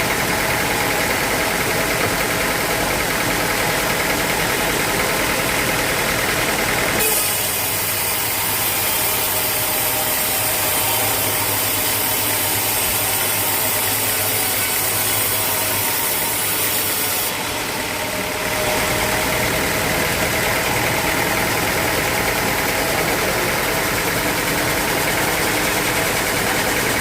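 Sawmill machinery running steadily with a motor drone. A loud hissing layer comes in about seven seconds in and stops about ten seconds later.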